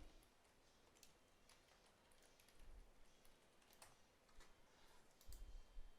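Faint computer keyboard typing: scattered, irregular keystrokes as a password is entered.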